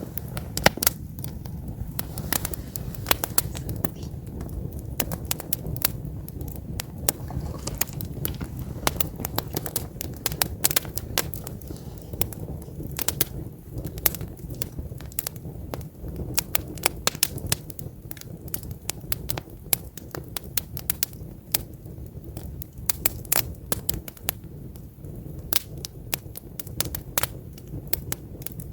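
Wood campfire crackling: logs burning with dense, irregular sharp pops and snaps over a low steady rumble.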